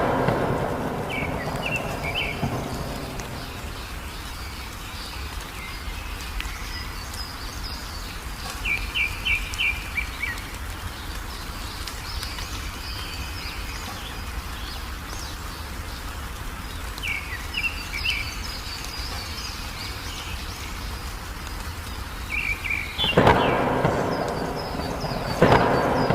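Steady rain with thunder claps, two of them near the end, and a small songbird chirping in short quick phrases of repeated high notes over the rain.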